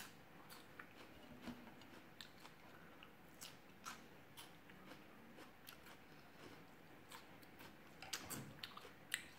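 Faint close-up chewing: a person eating raw vegetables such as bean sprouts with rice noodles, with scattered small crisp crunches and mouth clicks, a few louder ones near the end.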